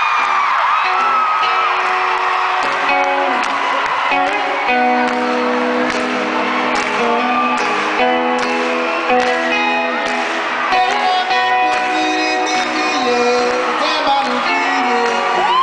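Live band playing a song's instrumental intro, led by strummed guitar, with crowd whoops and cheers near the start and again at the end.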